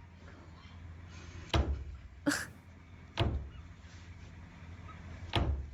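A tortoise ramming its shell against a mirror: four separate knocks at uneven intervals.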